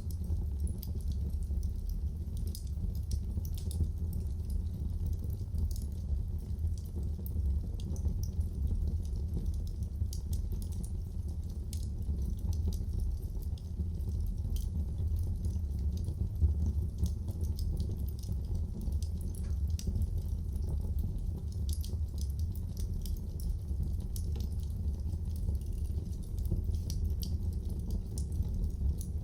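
Wood fire burning in a fireplace: a steady low rumble of the flames with frequent small crackles and pops, one louder pop about halfway through.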